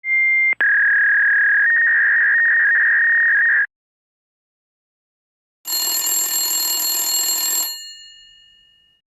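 Telephone sound effects, thin as if heard over a phone line. First a short high tone, a click and a steady tone of about three seconds that steps slightly up in pitch partway through. After a pause comes a bright, jangling ring of about two seconds that fades out.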